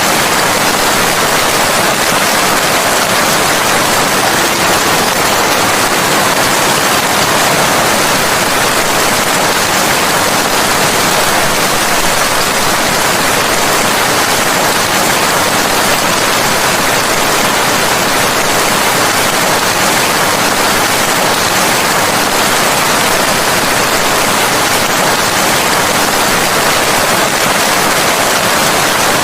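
Steady heavy rain, a dense even hiss of falling water without breaks.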